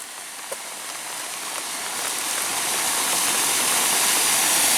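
Rain falling, a steady rushing hiss that grows gradually louder.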